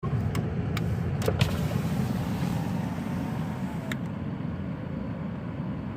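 Steady low rumble of a vehicle running, with a few sharp clicks in the first second and a half and one more near four seconds.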